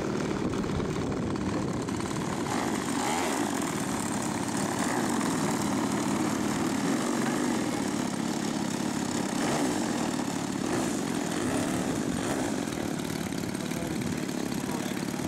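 Two-stroke chainsaw engine driving the BigLift's propeller, running steadily with only slight changes in speed.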